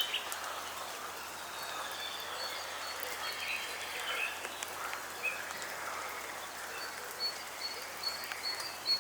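Light rain falling steadily in woodland, an even patter, with faint bird chirps over it.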